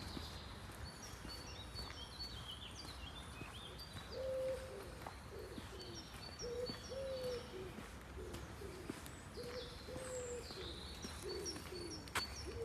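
A dove cooing in a run of repeated phrases, over high chirping from small birds, with one sharp click near the end.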